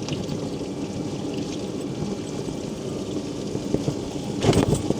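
Steady hiss of rain and wet tyres while riding a mobility scooter on a wet road, with a brief louder rush near the end.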